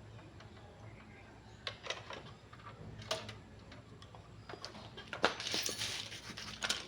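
Several sharp clicks and knocks, spaced irregularly, then about a second of rustling or scraping noise near the end.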